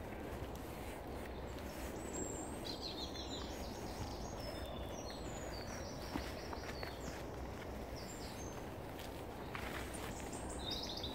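Songbirds singing: a run of short, high chirping phrases for several seconds and another burst near the end, over a steady low outdoor rumble, with a few footsteps through undergrowth.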